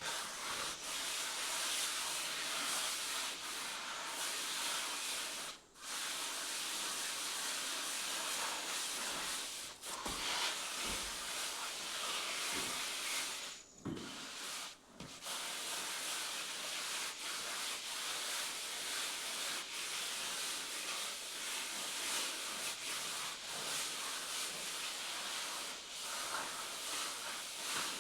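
Hand plastering tool rubbing and scraping over a cement-plastered floor: a continuous rasping hiss with a few brief breaks.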